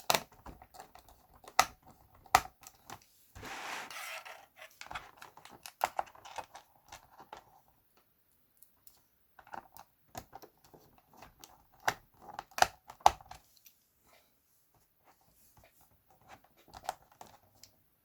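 Plastic computer keyboard being pried apart by hand: irregular clicks, snaps and knocks of plastic parts in clusters, with about a second of scraping three and a half seconds in and short pauses between.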